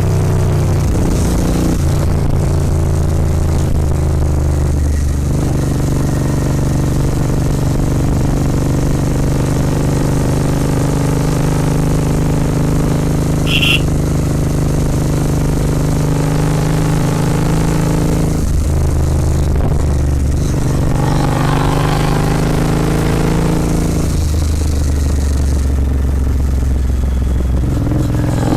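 Royal Enfield Continental GT 650's 648 cc parallel-twin engine running through a Red Rooster aftermarket exhaust while riding. The note steps up and down a few times with throttle and gear changes and rises as it accelerates near the end. A brief high-pitched chirp comes about halfway through.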